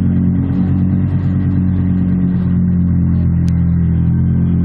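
Lexus LFA's 4.8-litre V10 idling steadily, a loud, even exhaust note with no revs.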